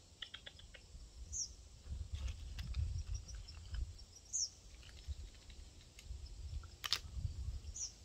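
Faint outdoor ambience: a bird gives a short high chirp about every three seconds, with a few light clicks and one sharper tap near the end, over a low rumble.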